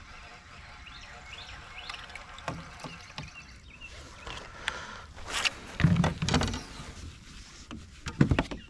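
Knocks and thumps on a fishing kayak, a cluster about five to six seconds in and another near the end, over a steady outdoor background.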